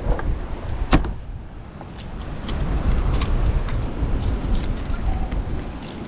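Storm wind buffeting the microphone with a steady low rumble. A sharp knock comes about a second in, followed by light metallic clicks and jingles.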